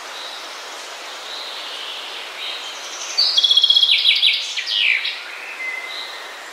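Songbird calling outdoors: faint short high notes every second or so over a steady hiss, then a loud burst of rapid chirps and quick downward-sliding notes for about two seconds in the middle.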